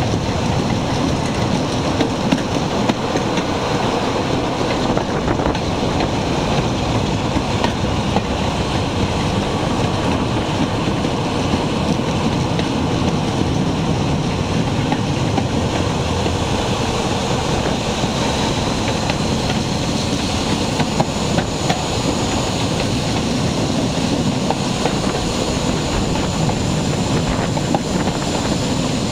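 Diesel-hauled train on the move, heard from a window on the train: a steady engine drone with wheel and rail noise and the occasional clickety-clack of rail joints.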